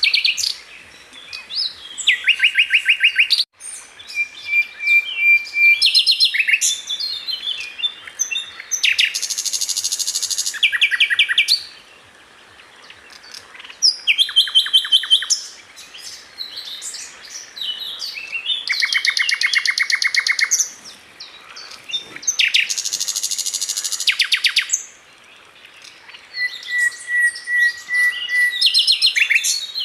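Sikatan londo, a flycatcher, singing a long, varied song. Fast rattling trills of a couple of seconds each alternate with short chirps and a few steady whistled notes, with brief pauses between phrases.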